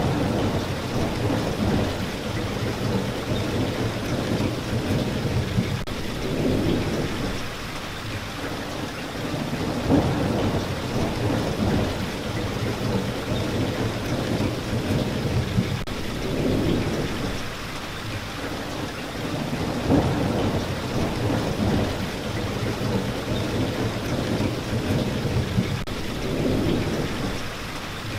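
Steady rain with low rolling thunder that swells and fades every few seconds.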